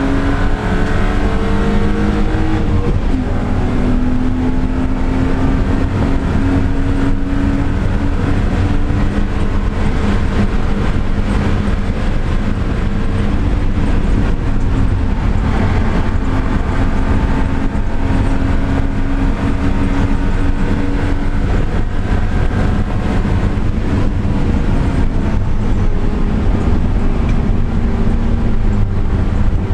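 Car engine heard onboard at full pace, its pitch climbing steadily through each gear and dropping at several upshifts, over heavy low road and wind rumble.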